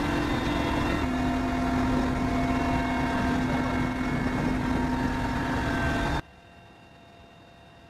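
Helicopter running, a loud steady engine and rotor noise with a constant whine that drops slightly in pitch about a second in. It cuts off abruptly about six seconds in, leaving a faint hiss.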